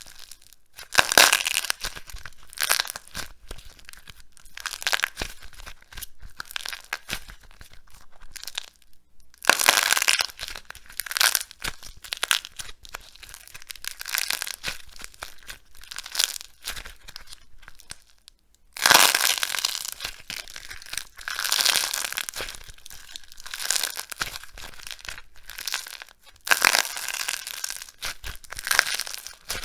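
Dry, crisp soap being crushed, in repeated crunching, crackling squeezes a second or two apart, with two brief breaks in the sound.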